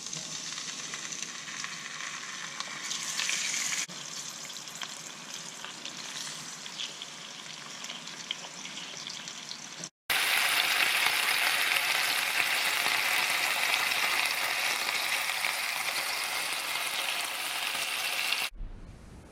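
Bone-in, skin-on chicken thighs frying skin side down in a little oil, a steady sizzle as the skin browns. The sizzle breaks off for a moment about ten seconds in, comes back louder, and drops away near the end.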